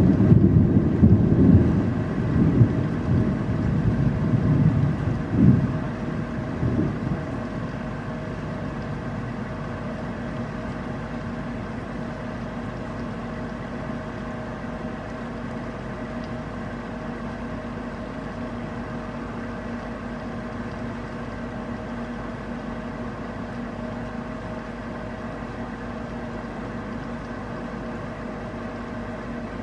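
Thunder rumbling low and loud for the first several seconds, fading out about seven seconds in. It leaves steady rain with a constant low hum beneath it.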